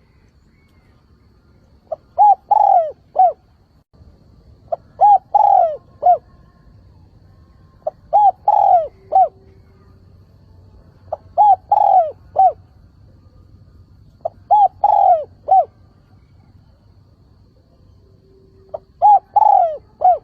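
A decoy spotted dove singing its calling song: six cooing phrases about three seconds apart, each a short lead note followed by two or three coos with a longer middle coo.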